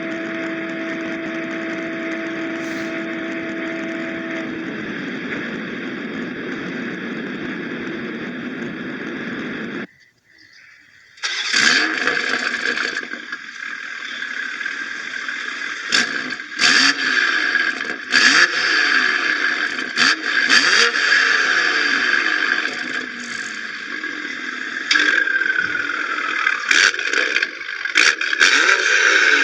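BMW M340i's turbocharged 3.0-litre inline-six on a Stage 2 MHD tune. It runs at a steady cruise for about ten seconds, drops out for a second, then revs hard up and down through the gears with sharp cracks from the exhaust.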